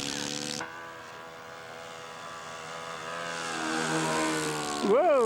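Radio-controlled scale model airplane's engine running in flight, with a short hiss in the first half second. About three seconds in, the engine note rises in pitch and grows louder.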